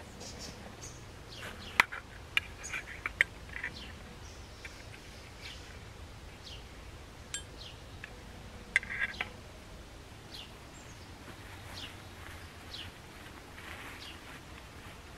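Small songbirds calling with short, high, downward-sliding chirps again and again. A few sharp clinks stand out about two to three seconds in and again about nine seconds in.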